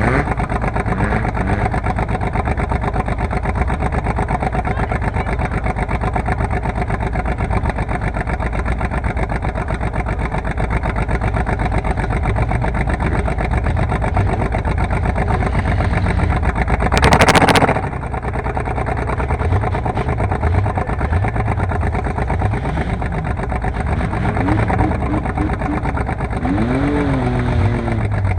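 Car engines running steadily, revving up and down in the later part, with a brief loud burst of noise a little past halfway.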